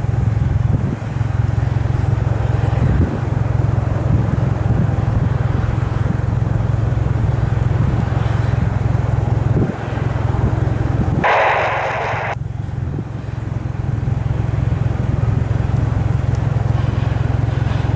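Jet airliner engines running, a steady low rumble mixed with wind buffeting the microphone. A short burst of hiss about eleven seconds in.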